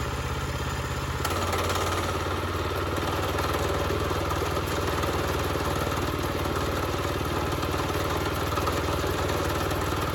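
Gasoline engine of a portable bandsaw sawmill running steadily; about a second in its note shifts and fills out as it is throttled up for a cut through the pine log.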